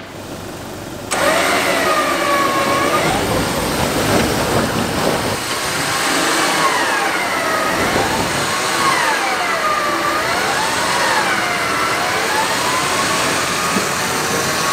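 Four-wheel-drive vehicle engine revving up and down over and over, as when crawling over rough track, over a loud steady rush of noise. It cuts in abruptly about a second in.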